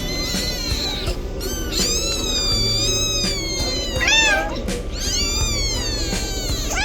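A cat meowing repeatedly: several long, drawn-out meows that rise and fall in pitch and one short rising meow, over background music.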